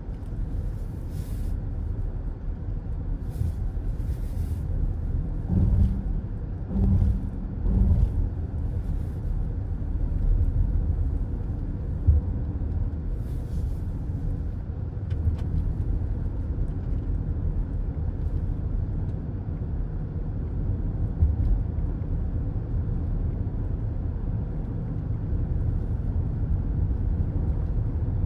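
Steady low rumble of tyres and engine in a car cruising on a highway, heard from inside the cabin. A few short hisses come through in the first few seconds and again a little before the halfway point.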